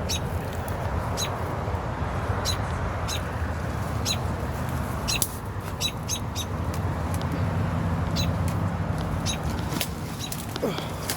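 A bird chirping: about twenty short, high calls at irregular intervals, over a steady low background rumble.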